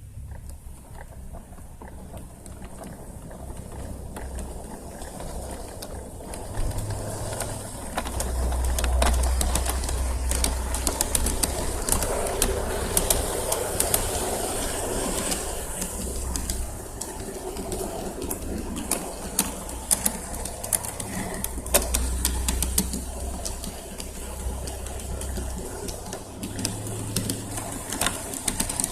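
A pigeon or dove cooing repeatedly, with frequent sharp clicks and a low rumble that swells and fades at times.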